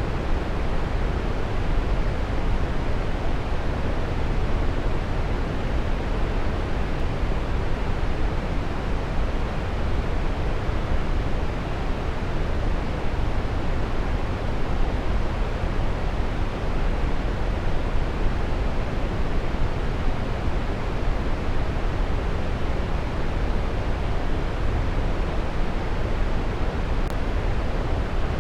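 Waterfall rushing: a steady, even roar of falling water, heaviest in the low end.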